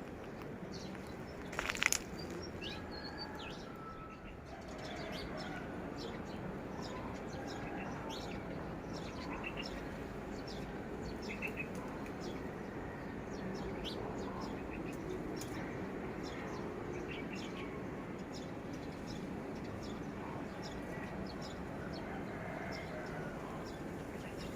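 Small birds chirping and calling over a steady background noise, with a brief loud rustle about two seconds in.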